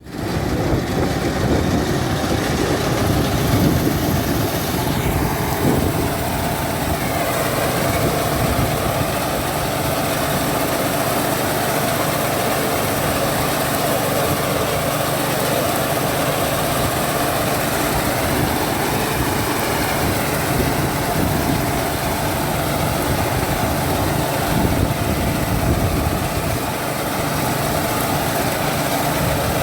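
Small engine of a crop reaper running steadily at an even speed.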